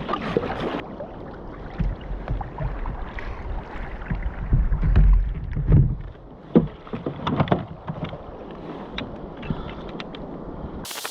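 Water sloshing and splashing around a sea kayak, with scattered knocks on the hull and wind buffeting the microphone, heaviest in a gust about halfway through.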